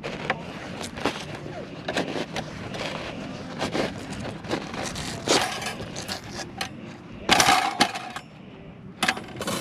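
Irregular clatter, knocks and scrapes of camping gear being handled, with a louder, longer scraping clatter about seven seconds in.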